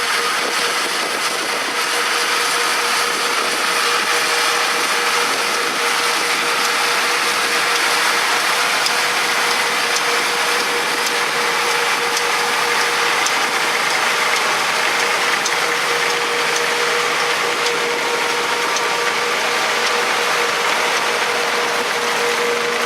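Farm machinery working steadily: a tractor running under load with a pulled peanut combine's moving parts, a constant mechanical noise with a steady whine through it.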